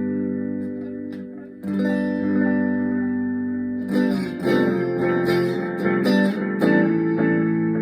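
Electric guitar on a clean amp channel, played through a Donner Yellow Fall delay pedal with the echo level turned to maximum. A strummed chord rings out and a second chord is struck about two seconds in, then quicker strumming starts halfway through.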